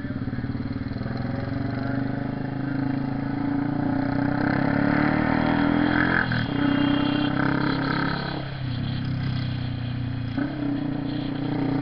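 Honda CB 300R single-cylinder motorcycle engine under way. The revs climb over the first six seconds, drop sharply at gear changes about six seconds in and again near eight and a half seconds, then pick up once more near the end.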